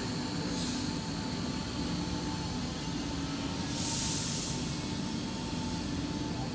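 Steady hum of factory machinery with several constant tones, and a short burst of hiss about four seconds in.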